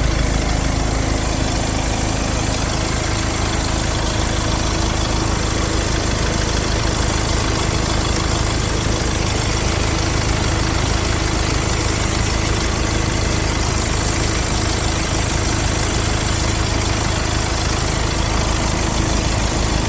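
Hyundai Palisade's 2.2-litre four-cylinder diesel engine idling steadily.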